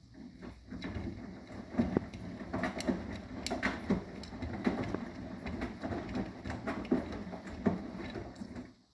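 Arçelik 9120M washing machine's drum turning during a wash, its motor humming under irregular knocks and swishing from the wet load, stopping suddenly near the end.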